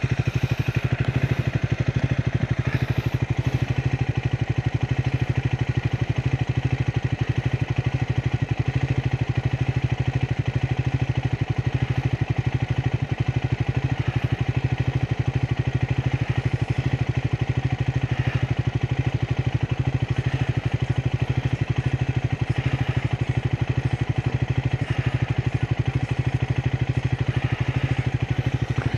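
Single-cylinder engine of a 2025 Triumph Speed 400 motorcycle idling steadily, a thumper-style beat that holds even throughout.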